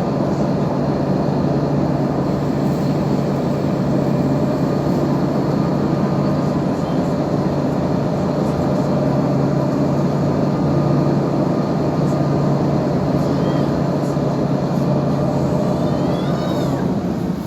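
Ferry's Scania diesel engine running with a steady low drone. The low hum drops away and the sound gets a little quieter near the end.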